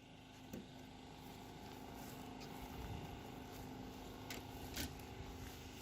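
Faint steady low hum and rumble with a thin constant tone, broken by a soft tick about half a second in and two light clicks late on.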